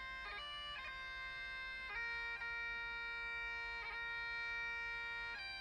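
Bagpipe music: held notes of a slow melody, broken by quick grace-note flourishes at each change of note.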